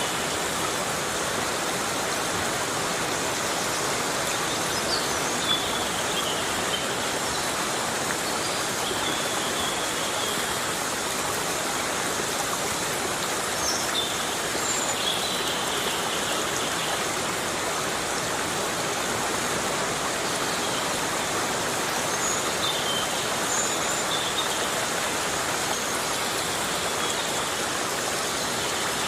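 Heavy rain falling steadily: an even, unbroken hiss, with faint short high chirping calls here and there.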